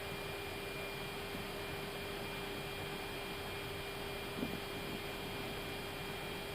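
Steady airliner cockpit background hum and hiss with a few constant whining tones, from the Airbus A320's running systems. A faint click comes about four and a half seconds in.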